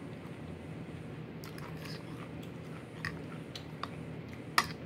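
A person chewing a mouthful of pasta with wet smacking. A few short sharp clicks come through it, the loudest near the end.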